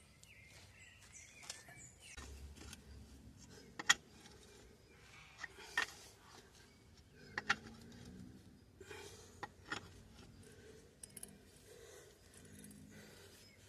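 Scattered sharp metallic clinks of a small wrench against bolts while they are tightened on the reassembled wheel, a handful spaced a second or two apart.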